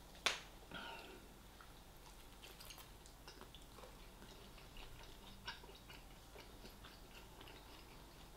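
Faint chewing and small wet mouth clicks of a person eating KFC fried chicken dipped in barbecue sauce, with one sharp click about a quarter of a second in.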